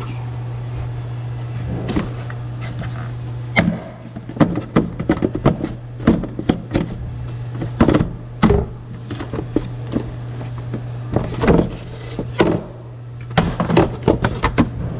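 Irregular knocks, clicks and clatter of parts and tools being handled on the golf cart, over a steady low hum.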